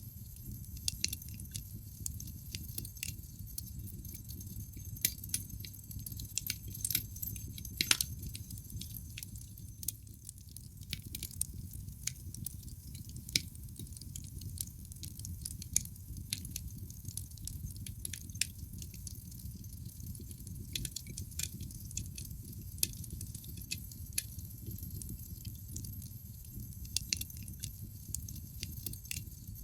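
Wood fire crackling in a fireplace: irregular sharp pops and snaps over a steady low rumble, with the loudest snap about eight seconds in.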